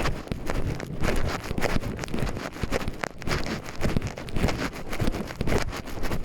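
Footsteps walking along a forest trail, an uneven crunching tread about one or two steps a second, with wind buffeting the microphone.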